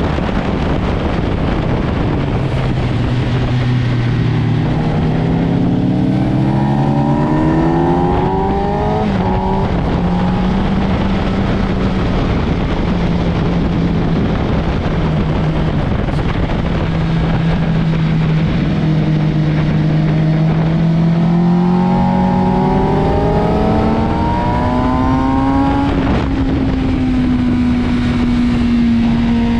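Sport motorcycle engine under load on a race track, heard with strong wind rush. The engine pitch climbs twice under acceleration, each time falling away sharply at a gear change, and holds steady in between.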